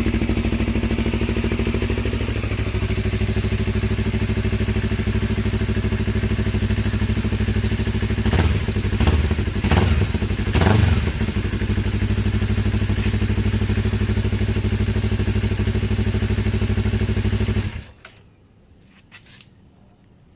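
Yamaha MT-25/R25 parallel-twin engine idling through an aftermarket Protech header pipe. It is blipped with a few quick revs about halfway through, then switched off near the end, leaving a few faint clicks.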